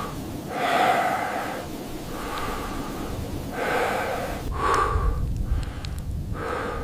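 Heavy breathing: slow, hissy breaths in and out, one every one to two seconds, over a low rumble.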